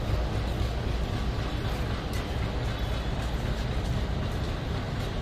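Diesel locomotive running with a steady low rumble as it shunts a passenger train back in a push-back move.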